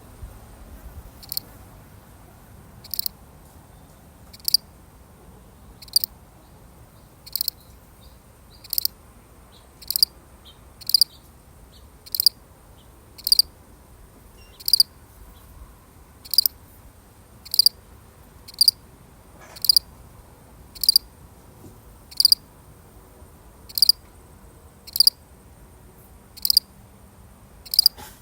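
A single cricket chirping: short, high-pitched chirps repeated evenly, about one every second or so, a little more widely spaced at first.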